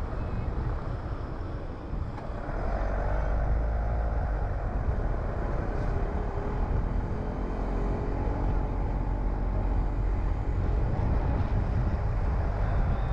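Car driving on the road: steady low engine and tyre rumble, with the engine note rising about two seconds in as it accelerates, then easing off.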